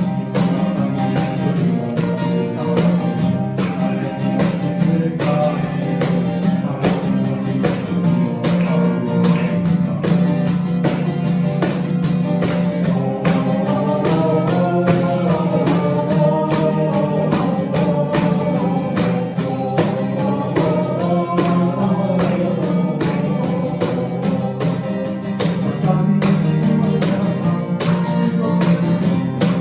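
A band playing a song with strummed acoustic guitar throughout; a melody line rises and falls over the strumming in the middle part.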